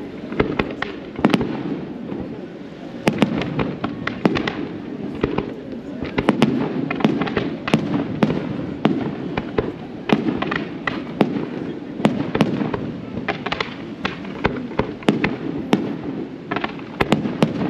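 Fireworks display: aerial shells bursting in a rapid, irregular run of sharp bangs and crackles, several a second at the busiest, over a steady low murmur.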